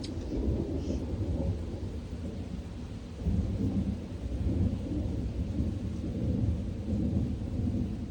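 Thunder rumbling through a thunderstorm, with rain in the background; the rumble swells louder about three seconds in.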